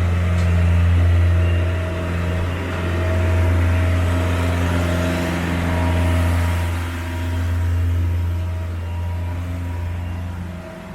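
Loud, steady low mechanical hum with a few fainter steady tones above it, swelling and easing every two to three seconds.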